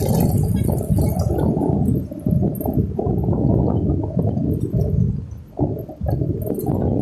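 Wind buffeting the microphone in uneven low rumbles, with a few faint clicks and rattles over it.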